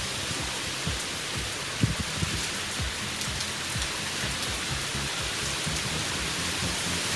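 Heavy rain falling steadily, with scattered low thumps among it; the loudest thump comes about two seconds in.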